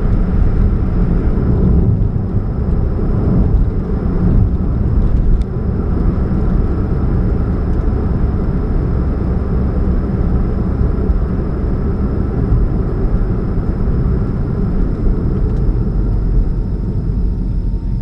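2013 Chevrolet Spark running with a steady low rumble and hum, the humming sound the owner puts down to an exhaust leak at the catalytic converter. A brief click about five seconds in.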